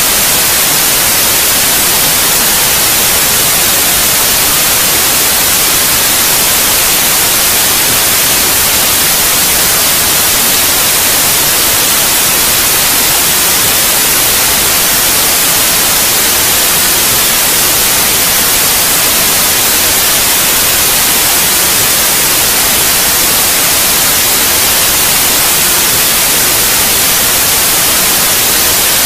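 Steady white noise: an even, unchanging hiss, strongest in the highs, played continuously as a sleep aid for babies.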